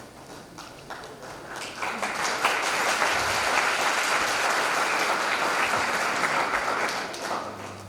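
Audience applauding at the end of a talk. The clapping builds over the first two seconds, holds steady, and dies away near the end.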